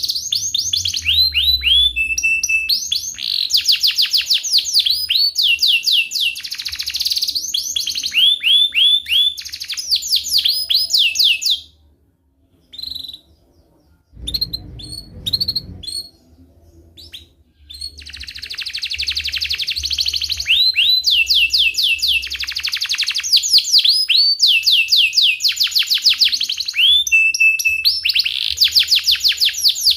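Domestic canary singing long rolling trills of fast repeated chirps, one phrase running into the next. About twelve seconds in it breaks off into a few scattered chirps for several seconds, then resumes rolling.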